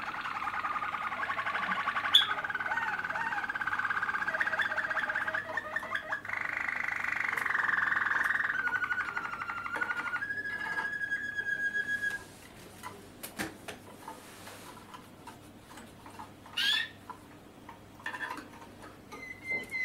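Young Malinois (Waterslager) canaries singing: fast rolling trills and held notes for about twelve seconds, stopping abruptly, followed by a quieter stretch with a few short chirps.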